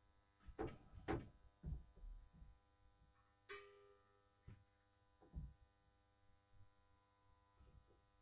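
Near silence broken by a handful of dull thumps and knocks, with one sharp click about three and a half seconds in.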